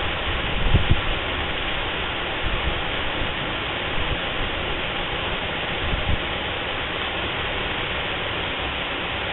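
Waterfall's steady rush of falling water, with a few brief low thumps near the start and about four and six seconds in.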